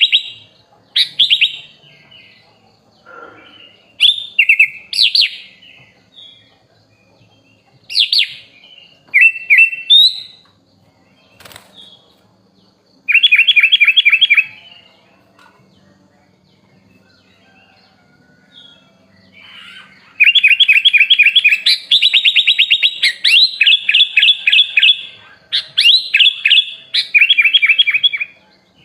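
Sooty-headed bulbul (kutilang) singing in bursts of rapid, stuttering chattering notes, with quiet gaps between. The bursts run almost continuously through the last third.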